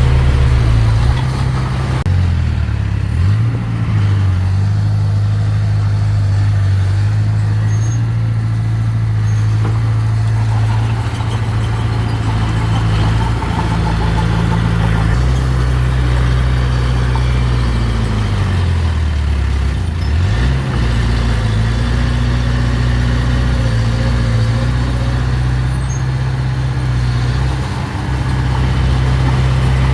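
Heavy earthmoving machine's engine running steadily, its pitch dropping and picking up again as the load or throttle changes: once briefly about 3 seconds in, and again over a few seconds about two-thirds of the way through.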